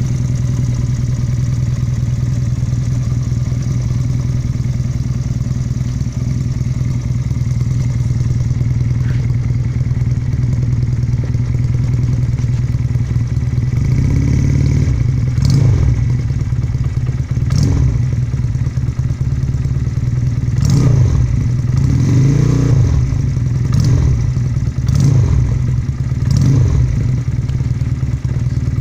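Benelli Patagonian Eagle 250cc motorcycle running through an aftermarket exhaust: it idles steadily for about half the time, then the throttle is blipped about eight times, each rev rising and falling back to idle.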